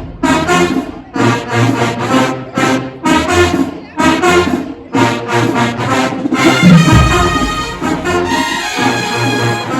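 HBCU marching band brass section (trombones and trumpets) playing short, punchy accented chords in a steady rhythm over drums, moving into long held chords about two-thirds of the way through.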